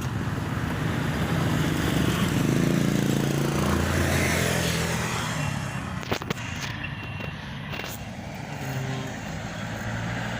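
Road traffic: a motor vehicle passing close by, its engine hum and tyre rush swelling and then fading, with a couple of sharp knocks partway through.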